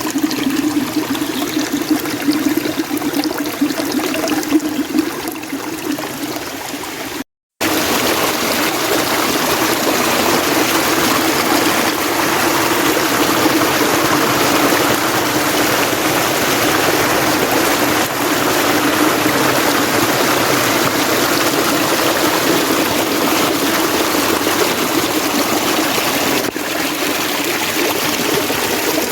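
Steady running water of a mountain stream. It cuts out briefly about seven seconds in, then comes back as a fuller, even rush of water.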